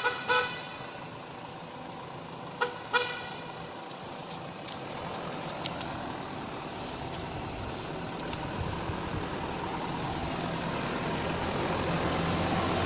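A vehicle horn gives two short double toots, the first pair right at the start and the second about two and a half seconds later, over passing traffic noise that slowly grows louder towards the end.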